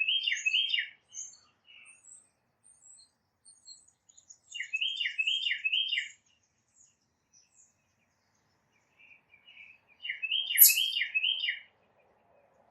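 Tufted titmouse singing: three phrases of four quick, repeated, downslurred whistled notes, a few seconds apart, with faint high chips from other birds between them. A brief sharp high tick just after the last phrase begins is the loudest sound.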